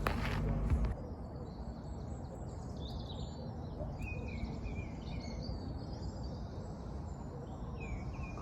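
Several birds chirping and singing in short trills over a steady low background rumble, starting about a second in after a louder passage cuts off.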